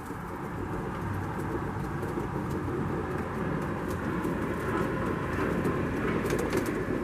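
Several pigeons cooing in a steady, continuous low murmur, with a few short clicks near the end.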